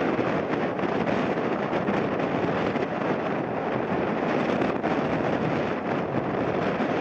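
A landing jet airliner's engine noise, blended with strong gusty wind buffeting the microphone, making a steady loud rush.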